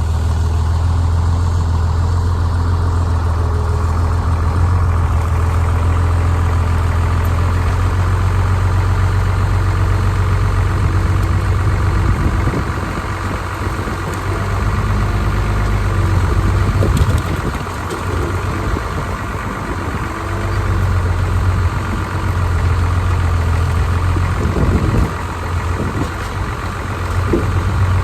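Farmall 666 tractor engine running steadily, its sound dipping and rising a few times in the second half.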